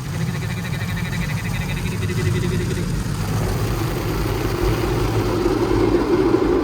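Automatic car wash working over a car, heard from inside the cabin: a steady low rumble, with a louder rushing noise building from about halfway through.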